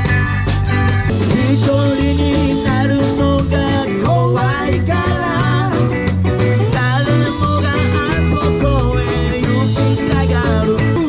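Live rock and roll band playing: electric guitar, bass guitar and drums at a steady beat.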